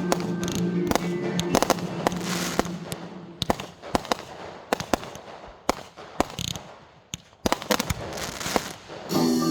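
Fireworks going off: a rapid, irregular series of sharp bangs and crackles. Music is playing at the start, fades out, and comes back just before the end.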